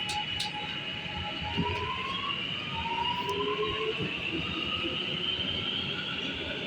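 R211A subway train accelerating out of a station: the propulsion whine climbs steadily in pitch over the running rumble of the wheels on the rails, with a few sharp clicks near the start.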